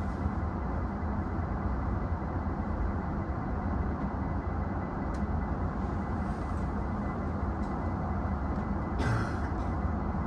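Steady low hum and whir of an E233-6000 series electric train's onboard equipment, heard inside the train while it stands waiting to restart. A brief hiss comes about nine seconds in.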